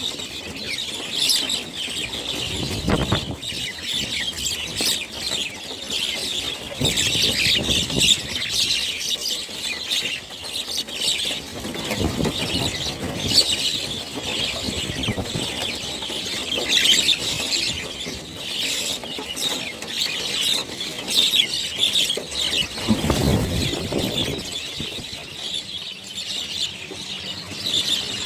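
A large flock of birds chattering and squealing all at once in a dense, unbroken din, with a few low rushing sounds rising and falling beneath it.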